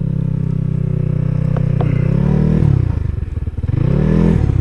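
Small vehicle engine running close by at a steady idle, then revved up and let back down twice, once about two seconds in and again near the end.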